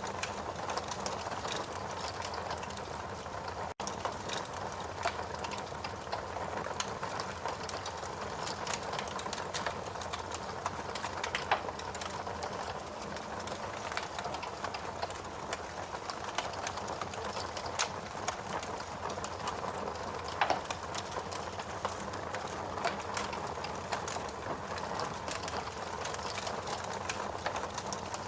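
Wood fire burning in a fireplace, crackling steadily with many small irregular pops over a low rush of flame, and a few louder pops standing out. The sound cuts out for a split second about four seconds in.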